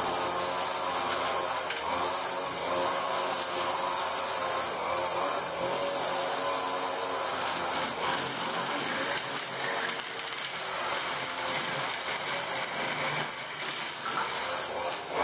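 A power tool running steadily without a break, a strong high hiss over a lower motor hum.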